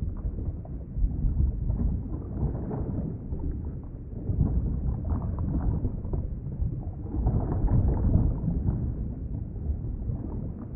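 Underwater ambience: a muffled, low rumbling wash with faint scattered crackles.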